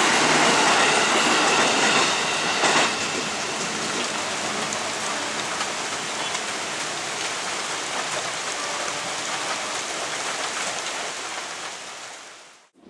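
KRL Commuter Line electric train running past in heavy rain, with a faint whine and a knock in the first few seconds. The train's sound gives way to a steady rain hiss, which fades out near the end.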